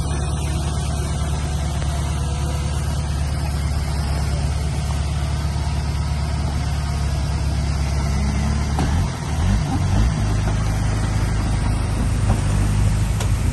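Heavy diesel engine running steadily, its note changing about nine seconds in and running a little higher and louder after that.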